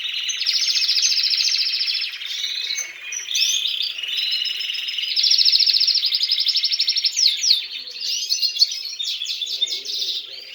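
Domestic canaries singing: long, rapid trills and chirping phrases, with the longest trilled runs about a second in and again about five seconds in.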